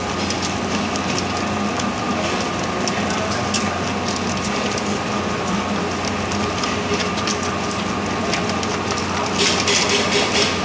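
Spiral dough mixer running: a steady motor hum under a continuous mechanical rattle, which grows louder for about a second near the end.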